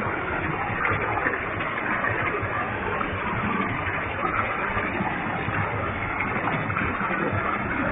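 Waterfall with a heavy flow of water, a steady rushing roar of falling water and spray.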